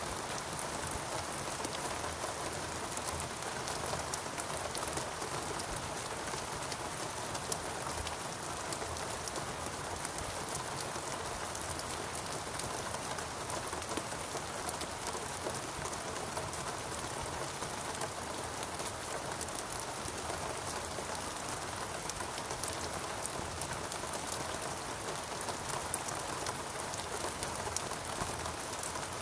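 Steady rain falling on leaves and surfaces, an even hiss dotted with many close individual drop patters.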